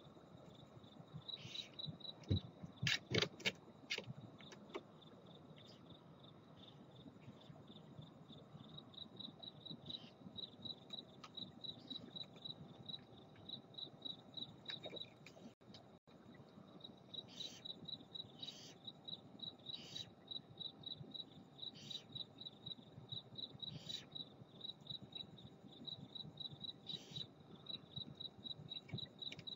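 Crickets chirping steadily, with short rasping hisses from barn owls repeated every second or so, mostly in the second half. A quick run of sharp knocks and scratches comes a few seconds in.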